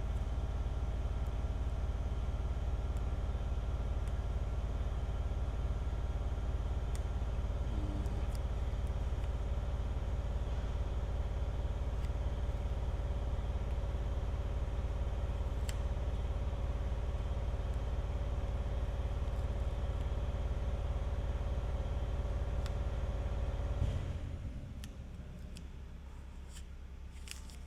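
A steady machine hum, a strong low drone with several even tones above it, which cuts off suddenly about 24 seconds in, leaving a fainter low hum.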